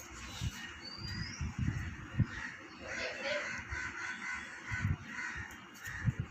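Birds calling in the background: a short rising chirp about a second in, then a run of repeated calls from about three to five seconds in. Scattered low knocks and rustling come from someone moving about.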